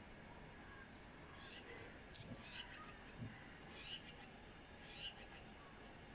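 Faint outdoor ambience: a steady low hiss with a few short, high chirps scattered through it.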